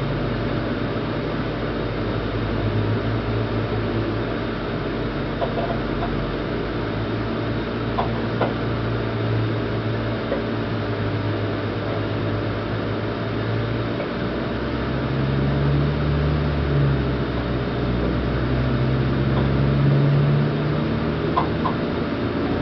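Union Pearson Express diesel multiple-unit train pulling away from a standstill, heard inside the passenger cabin: a steady low engine hum that rises in pitch about two-thirds of the way through as the train gathers speed, with a few faint clicks. The train is at what the uploader thinks is low throttle.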